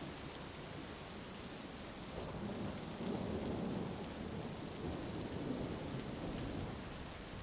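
Heavy rain falling steadily, with a low rolling thunder rumble that swells about two seconds in and fades away near the end.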